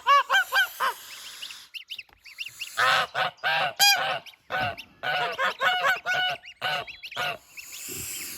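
Domestic geese honking over and over in short calls: a quick run of four or five in the first second, then a long string of honks from about three seconds in. They are mother geese calling their goslings out of the nest box.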